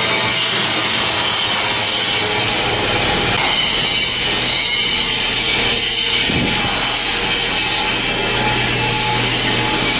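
Handheld power tool working steel, a steady rasping noise at an even level.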